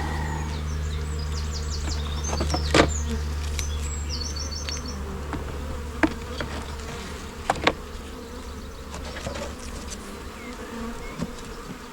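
Honey bees buzzing in flight around an open hive: a steady low hum that slowly fades, broken by a few sharp knocks.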